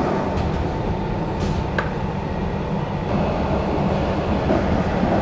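Electric suburban train in motion, heard from inside the carriage: a steady running rumble with a low hum, and a couple of light clicks about a second and a half in.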